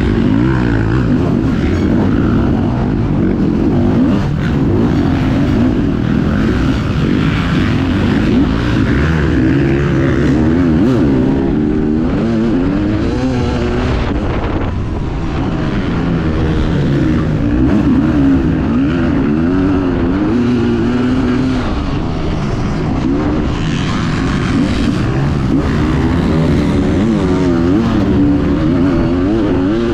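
Dirt bike engine running hard, its pitch rising and falling over and over with throttle and gear changes.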